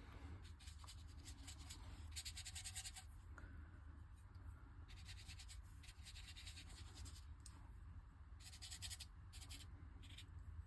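Faint scratchy strokes of a drawing or painting tool across cold-press watercolour paper, in three spells of strokes, over a low steady hum.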